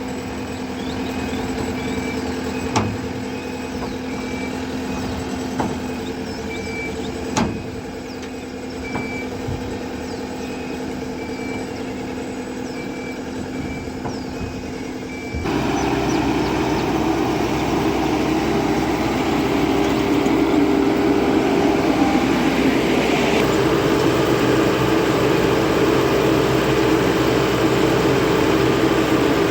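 Diesel engines of farm machinery (combine harvester and tractor) running steadily. In the first half a short high beep repeats irregularly over the engine hum, with a few sharp clicks. About halfway through, the sound switches abruptly to a louder, fuller engine running steadily.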